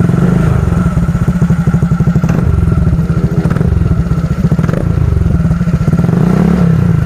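Honda Scoopy scooter's single-cylinder engine running at idle through a VND Racing AK 777 B1 aftermarket exhaust, with a steady, deep, fast pulse and a couple of slight rises in engine speed.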